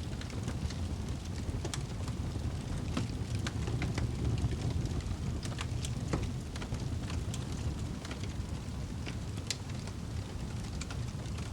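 Wood fire burning in a fireplace: a steady low rumble of flames with frequent irregular crackles and pops of burning wood, one sharper pop about nine and a half seconds in.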